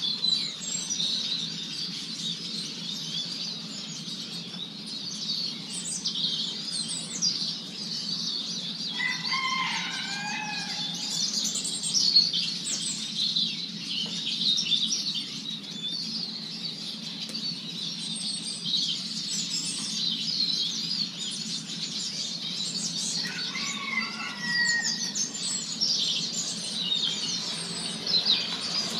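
Small songbirds chirping and twittering continuously in many overlapping high, quick calls. A lower, wavering call stands out twice, about a third of the way in and again near the end.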